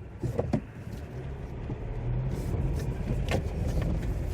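Car driving on a snowy road: a low tyre and road rumble that grows louder about two seconds in, with two short knocks just under a second in and another about three seconds in.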